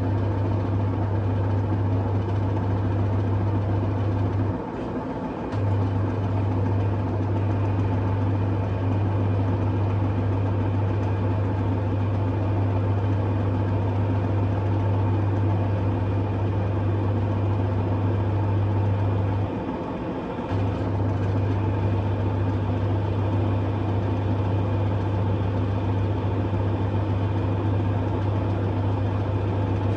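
LG F1222TD washing machine drain pump running with a steady low hum, cutting out for about a second twice.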